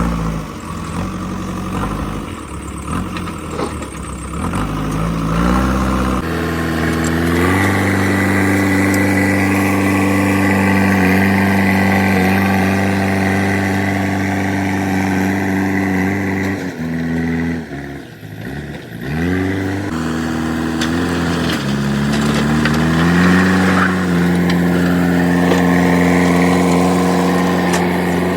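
JCB 3DX backhoe loader's diesel engine running, revving up about six seconds in and holding steady high revs. The revs drop away briefly about two-thirds of the way through, then come back up again.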